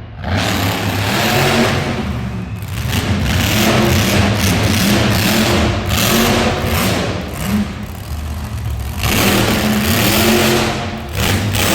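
Monster truck engine revving hard, its pitch rising and falling repeatedly in loud surges with short let-offs.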